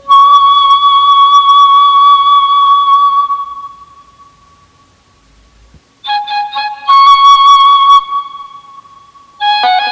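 Background music: a flute-like wind instrument plays a long held note that fades away, then after a pause of about two seconds it plays a few short notes and another long held note.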